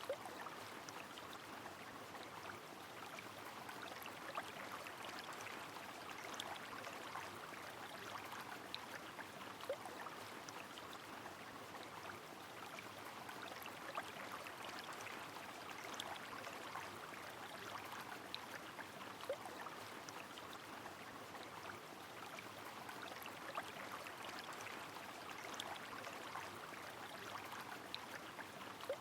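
A river flowing steadily under falling rain, sprinkled with fine drop ticks and an occasional louder drip or splash.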